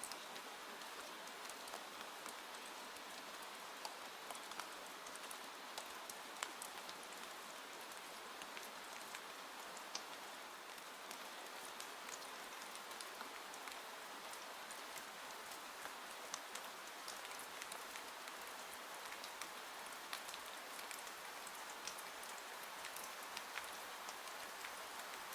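Steady rain falling, a soft even hiss with many scattered individual drops ticking throughout.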